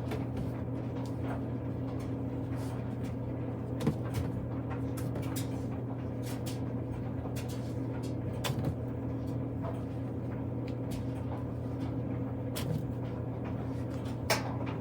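Clothes dryer running with a steady low hum, with a few light knocks and clicks over it.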